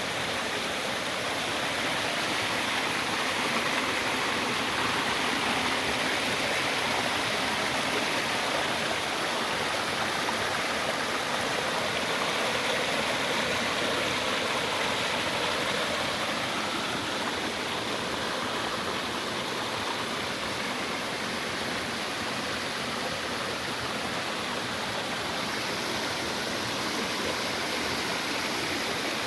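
Steady rush of running water, like a stream or small waterfall.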